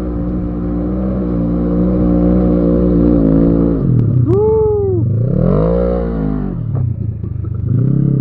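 ATV engine running steadily, then revved up and back down twice, the pitch climbing and falling each time, about four and five seconds in. It settles back to a steady run near the end, with a couple of sharp clacks during the revving.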